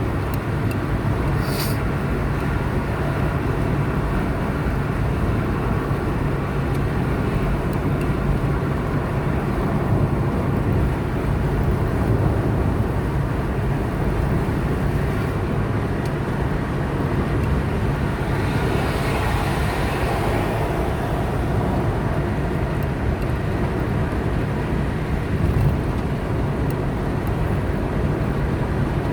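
Steady road noise and engine hum of a car driving on a highway, with a short click about a second and a half in. A rushing hiss swells and fades about eighteen to twenty-one seconds in.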